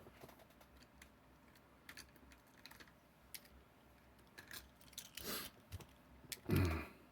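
Handling noise from packaged diecast toy trucks: scattered light clicks and plastic rustling, with a longer rustle about five seconds in and a louder thump and rustle near the end.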